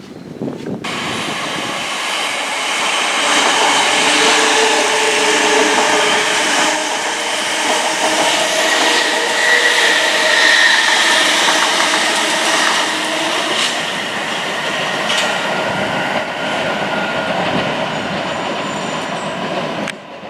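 Passenger train passing close by, its wheels running over the rails with a steady clatter and some held tones from the wheels. It starts abruptly about a second in, is loudest around the middle and drops away just before the end.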